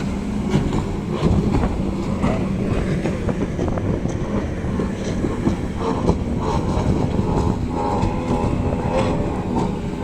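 Racing powerboat engine running at speed on the water, a loud steady drone; a higher engine note comes in about six seconds in.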